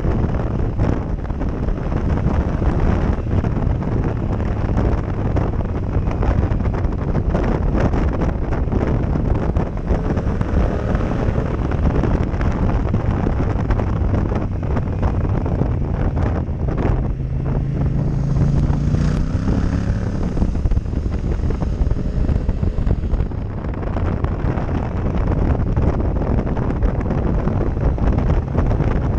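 Heavy wind buffeting on a helmet-mounted camera microphone while riding a Yamaha MT-07 Tracer. The bike's parallel-twin engine runs faintly underneath, its revs climbing briefly about two-thirds of the way in.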